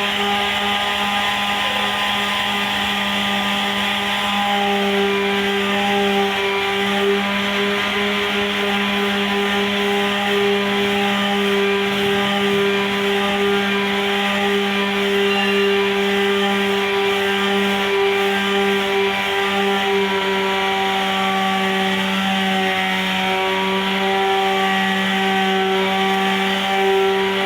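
Handheld electric power tool sanding down body filler on a truck's bodywork: a steady motor whine with a rough grinding hiss that holds at one speed throughout.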